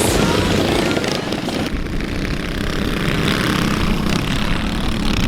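Mini bike engines running, a steady buzzing drone that changes character about two seconds in.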